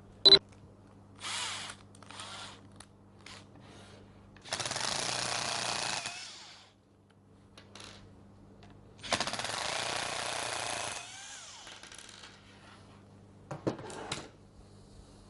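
Power screwdriver run in two bursts of about two seconds each, backing out the two screws that hold the rotor of a Bosch GSH 5 demolition hammer. The motor winds down with a falling whine after the second burst, with short clicks and rattles of parts being handled in between.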